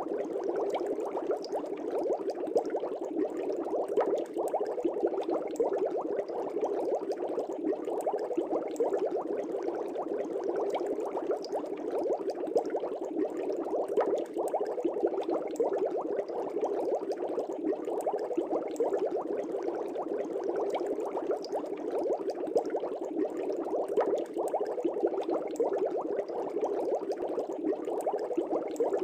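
Aquarium air bubbles rising and bursting at the water surface: a steady, dense bubbling and crackle.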